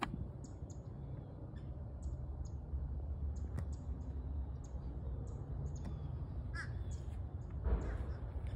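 Birds calling with short, high chirps several times a second and an occasional lower call, over a steady low rumble. A brief rustle comes near the end.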